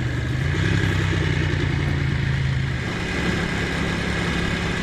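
Ducati Monster's V-twin engine running while the bike is ridden. Its note steps up a little under a second in and drops lower about three seconds in, as the throttle or gear changes.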